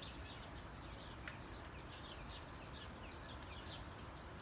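Faint birds chirping: a quick run of short, falling notes over a low steady hum.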